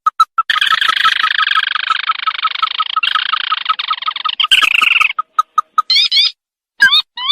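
Recorded lure call of the sintar, a crake: a dense churring trill over evenly pulsed notes, which about four and a half seconds in gives way to a harsher burst, then separate piping notes and a short phrase of quick rising notes near the end.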